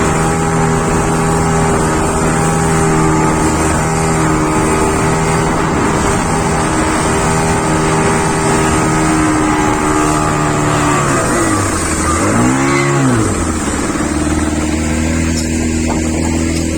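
Motorboat engine running steadily at speed over rushing wind and water noise. About eleven seconds in, its pitch dips, swells and falls as the throttle changes, then it settles into a lower, steady note.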